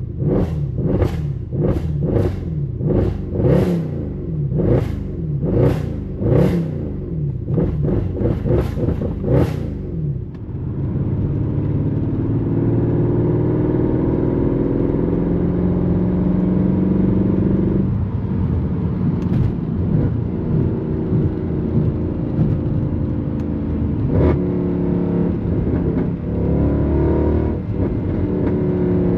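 Straight-piped Mercedes-AMG M156 6.2-litre naturally aspirated V8 exhaust being revved in a quick string of short, sharp bursts, a little under two a second. About ten seconds in it settles into a steadier, louder pull with the engine note slowly rising.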